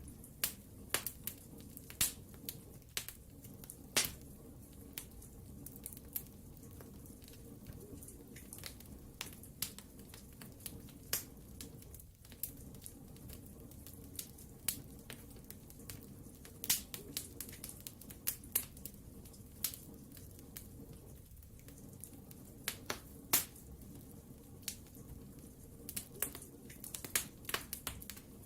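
Wood fire in a fireplace crackling and popping: irregular sharp snaps from the burning logs over a low steady rumble of the flames.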